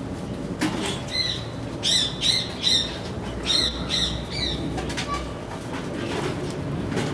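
Capybara giving a run of short, high, bird-like chirping calls, about seven in quick succession.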